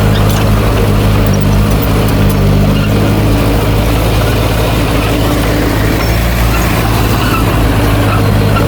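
Diesel engine of heavy earthmoving machinery running steadily at an even pitch and level.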